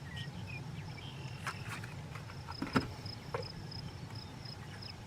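An insect chirping steadily in short high pulses, about three a second, with a few sharp clicks and rustles over it, the loudest a little before the three-second mark.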